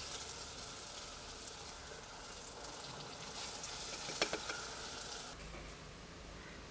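Urad dal fritters (uzhunnu bonda) deep-frying in hot oil, with a steady sizzle and crackle. There is one sharp click a little after four seconds in. A little after five seconds the sizzle turns quieter and duller.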